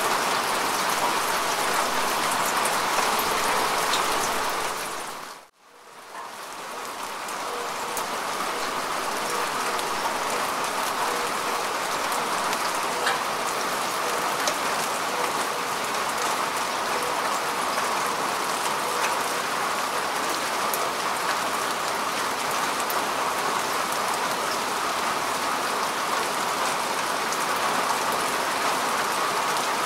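Steady rain falling on grass and earth, a dense hiss dotted with individual drop ticks. About five seconds in, the rain fades out to near silence and swells back within a second or so.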